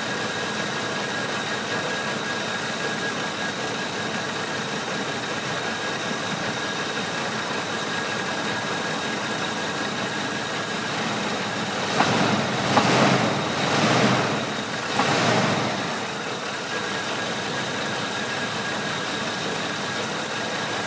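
Oldsmobile Cutlass V8 idling with a shake, misfiring because the spark plug wires for cylinders 1 and 7 are swapped. Several louder bursts of noise come between about twelve and sixteen seconds in.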